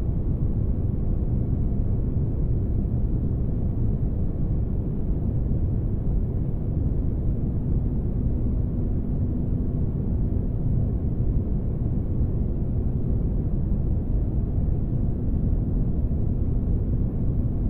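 Spaceship-interior ambience noise: a steady, deep, even rumble with no breaks. A faint steady hum tone joins it about halfway through.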